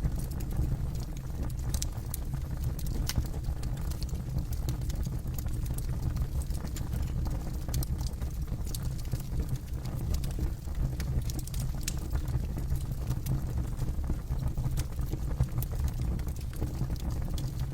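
Campfire burning: wood crackling and popping in irregular sharp clicks over a steady low rumble of the flames.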